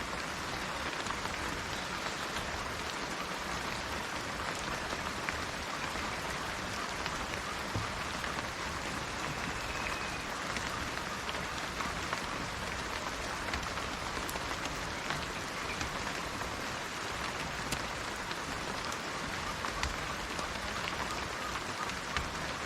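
Steady rain falling on a surface: a dense, even hiss with individual drops ticking through it.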